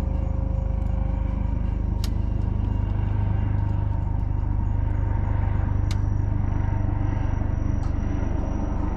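Wood fire burning, with two sharp pops from the burning wood, about two seconds in and again about six seconds in, over a steady low rumble.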